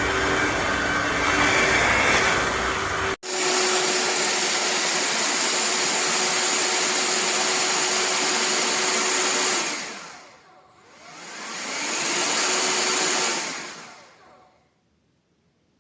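Shark HydroVac wet-dry vacuum motor running steadily with a high whine, breaking off for an instant about three seconds in. Around ten seconds it winds down and spins back up, then winds down to near silence near the end.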